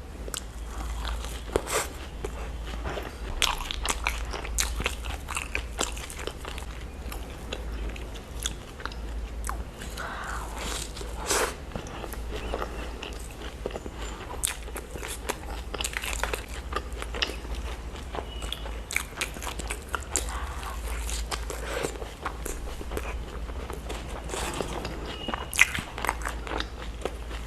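Close-miked eating: a person biting and chewing food, with frequent irregular crunches and wet mouth clicks.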